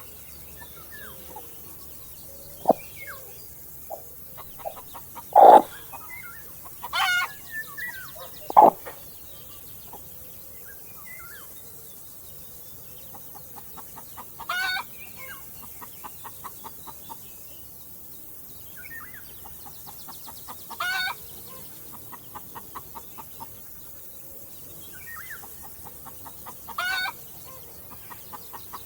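Chickens clucking. There are a few sharp, louder calls in the first nine seconds, then a call about every six seconds, each followed by a run of quick clucks.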